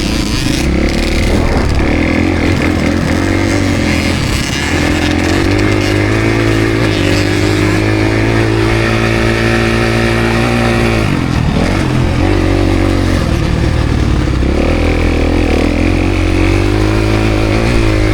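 Honda CRF250R's single-cylinder four-stroke engine revving under riding load. Its note climbs and falls with the throttle and holds steady for a few seconds, drops sharply a little past halfway, then pulls up again.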